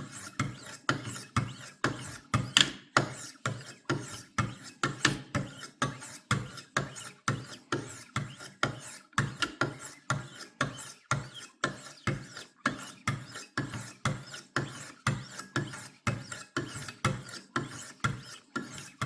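Wicked Edge WE60 guided sharpener's stones stroked along a kitchen knife's edge: a steady, rhythmic rasp of about two to three strokes a second, stopping near the end as the edge is being polished up.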